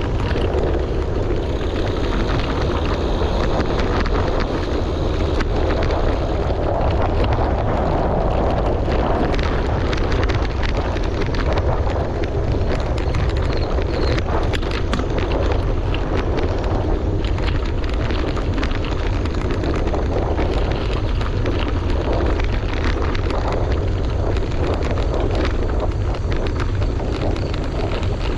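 Wind buffeting the microphone over bicycle tyres rolling on a gravel road, with a constant low rumble and many small ticks and rattles from the stones.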